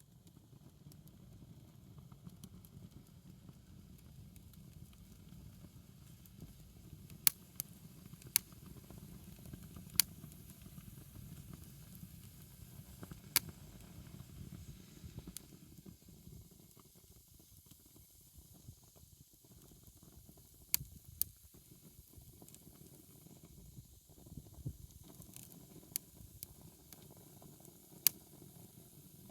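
Wood bonfire burning: a steady low rush of flame with a scattered handful of sharp pops as the wood crackles.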